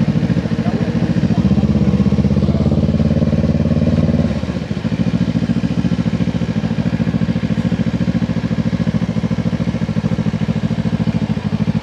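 Kawasaki Ninja 500 SE's parallel-twin engine idling with an even pulsing beat. About four seconds in it drops to a slightly lower, quieter idle.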